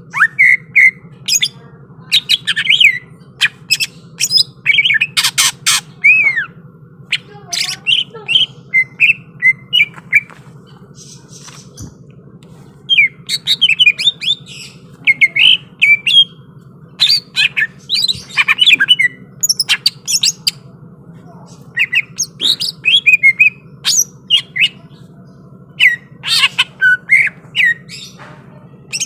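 Greater green leafbird (cucak ijo) singing in runs of loud, sharp, fast-sweeping calls with short pauses, quieter for about two seconds near the middle, over a steady low hum.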